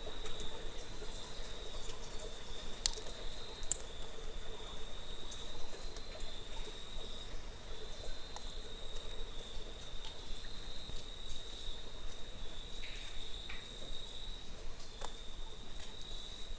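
Insects, like crickets, trilling in one steady, high, unbroken note, with a few scattered faint clicks.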